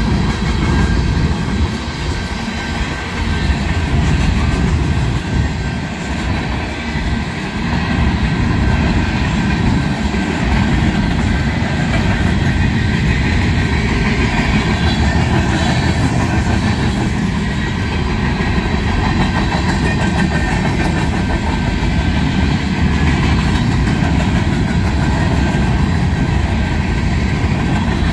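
Freight cars of a Union Pacific manifest train rolling steadily past: covered hoppers, tank cars, centerbeam flatcars and boxcars. The wheels on the rails make a continuous low rolling noise.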